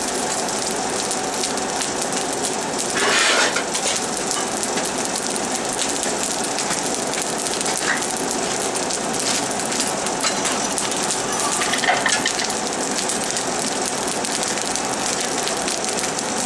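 Forge fire burning with a steady rushing hiss and fine crackle. There is a brief louder flare of noise about three seconds in.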